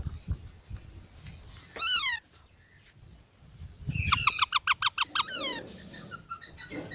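Parrot calling: one falling squawk about two seconds in, then a rapid run of about ten short, sharp squawks, ending in a couple of falling calls.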